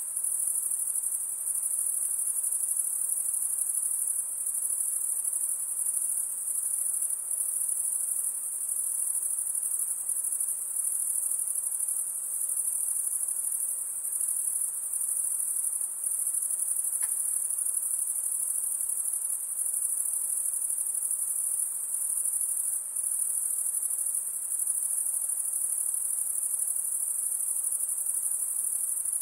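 A chorus of insects making a continuous, very high-pitched shrill buzz that holds steady without pause.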